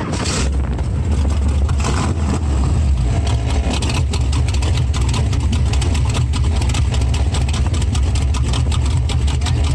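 A rat rod's engine running at idle, a steady low exhaust rumble with a rapid even beat that comes up about half a second in.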